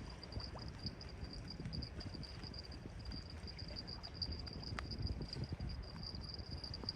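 Seaside ambience: a steady low rumble of the sea, with insects trilling steadily in a high, pulsing band over it.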